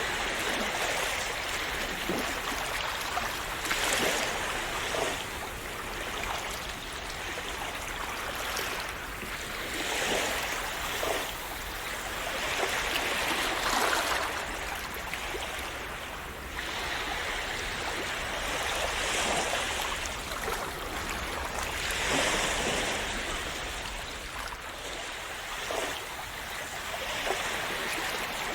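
Calm sea waves washing and splashing in, a continuous rush of water that swells and eases every few seconds.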